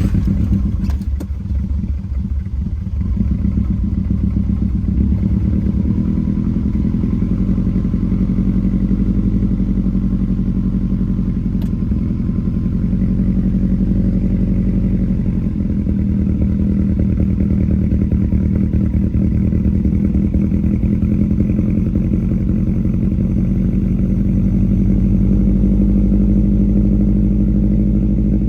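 Subaru EJ25 flat-four engine starting up and idling, sounding rough for the first few seconds and then settling into a steady idle, just after a new spark plug was fitted to chase a cylinder 4 misfire.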